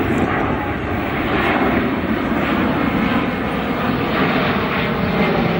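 Boeing C-17 Globemaster III flying past, its four turbofan jet engines giving a loud, steady roar.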